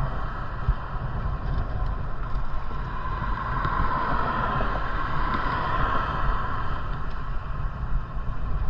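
Steady rush of wind over the microphone and bicycle tyre noise while riding along at speed.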